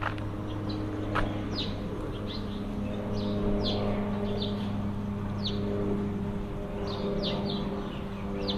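Small birds chirping, short falling notes about twice a second, over a steady low engine-like hum.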